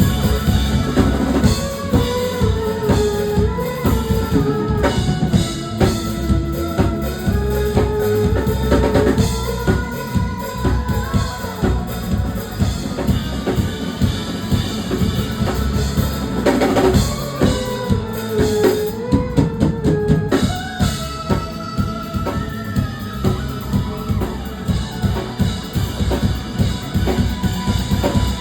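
A rock band playing an instrumental passage: a full drum kit with kick and snare keeping a steady beat under bass, with a bending lead melody line above.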